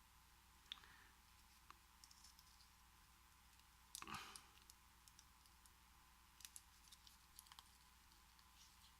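Faint, scattered small clicks and taps of an American 5200 padlock being taken apart by hand, with a brief, slightly louder rattle about four seconds in.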